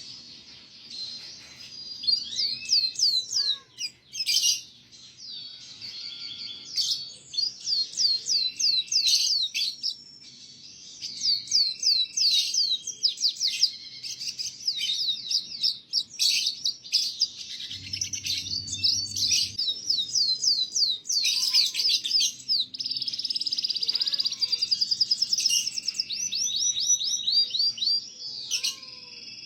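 Canary singing a long, fast song of rapid trills and repeated downward-sweeping notes, run together with only short pauses: a 'gacor' tutor song for young canaries to learn from.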